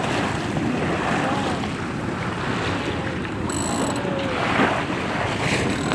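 Wind buffeting the microphone over the steady rush of water along a moving boat's hull.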